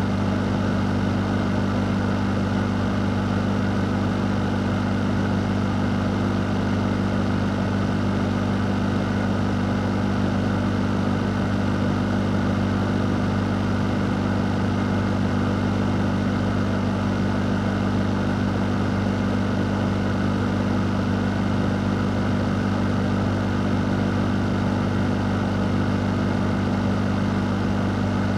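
A fan running steadily, giving a constant low hum under an even rush of air.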